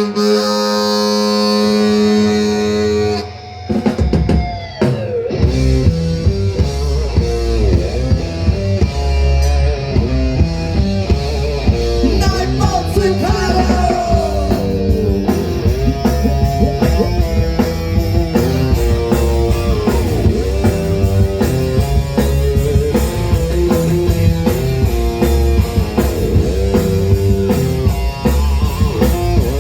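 A live ska band plays an instrumental intro. A sustained held chord opens it, and about four seconds in the full band comes in with drum kit, bass and guitar on a steady, upbeat beat.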